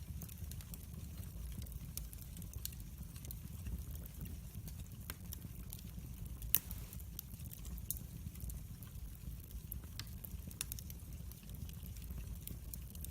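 Wood fire burning in a fireplace, crackling with scattered sharp pops and one louder pop about halfway through, over a low steady rumble of the flames.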